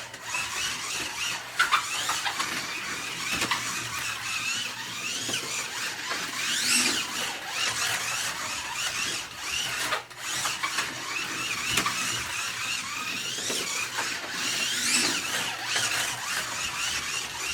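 Slot car's small electric motor whining as the car laps the track, the pitch rising and falling as it speeds up and slows, climbing to a high peak twice.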